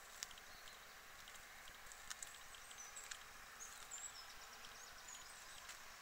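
Near silence outdoors, with faint high bird chirps and a few small clicks.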